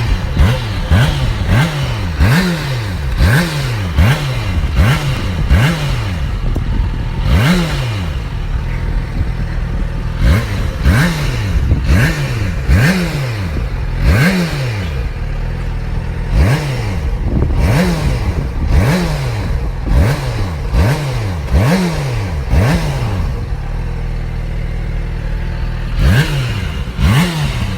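Motorcycle engine revved in short blips about once a second, each rising and falling in pitch, with sharp pops and clatter from the exhaust as popcorn kernels lodged in the muffler are blown out. The revving pauses for a steady idle about three-quarters of the way through, then picks up again.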